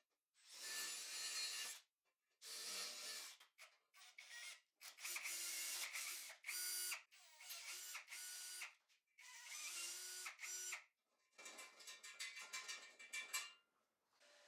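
A workshop tool working on material in a series of short bursts of about a second each, with short pauses between. Several bursts in the middle carry a steady whine.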